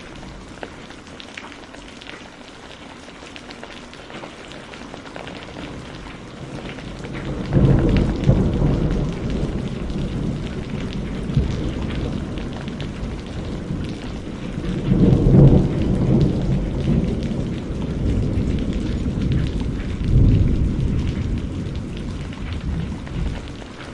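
Steady rain falling, with thunder rumbling in from about a third of the way through. The thunder swells in several deep peaks and dies away near the end.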